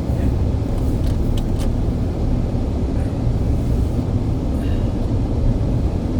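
Steady low rumble of a moving vehicle, with a few faint clicks about a second in.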